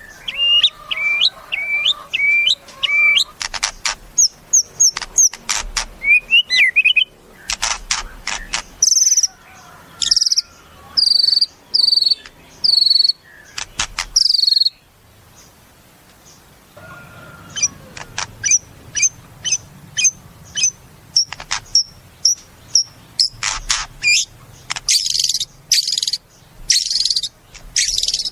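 White-rumped shama (murai batu) singing a varied song: series of repeated clear whistled notes alternating with fast rattling clicks and high chirps, with a pause of about two seconds a little past halfway.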